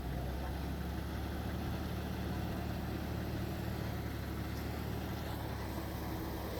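Diesel engine of earthmoving machinery running steadily at an even speed, with a constant low hum.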